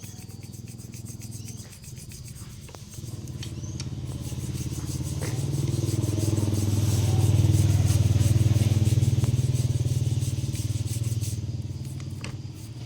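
A small engine running with a low, even pulse, growing louder to a peak about eight seconds in and then fading.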